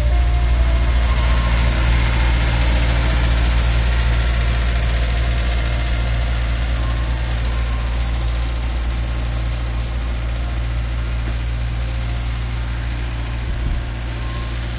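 Vehicle engine idling: a loud, steady low rumble.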